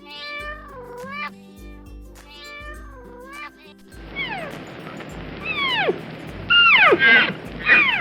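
Background music with a steady beat. From about four seconds in, a cat meows repeatedly over it, each meow falling in pitch, and the last ones are the loudest.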